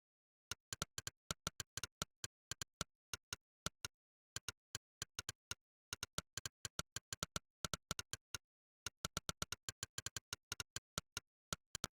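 Monkeytype's 'click' typing sound effect, one short click per keystroke, coming in quick irregular runs of several clicks a second with brief pauses, as during fast typing. The first click comes about half a second in.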